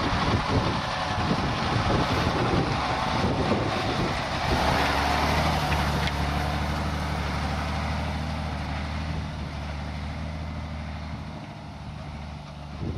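Scania 4x4 expedition truck's diesel engine running as a steady low hum. It sets in about four seconds in and slowly fades, with wind rushing over the microphone at first.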